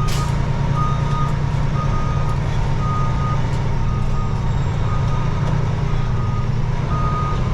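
Truck's backup alarm beeping about once a second, each beep about half a second long, over the steady drone of the truck's engine as it reverses.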